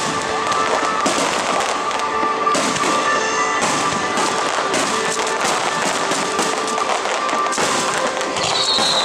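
Aerial fireworks bursting and crackling in quick succession, with music playing underneath. A falling whistle starts near the end.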